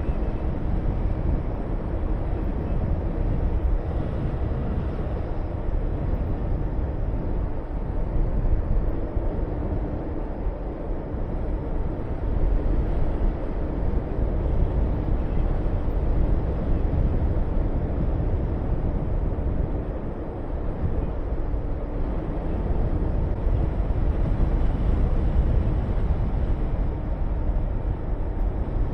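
Honda VTR250's 90° V-twin engine running steadily under way, mixed with a strong rush of wind over the microphone, the sound easing briefly a couple of times.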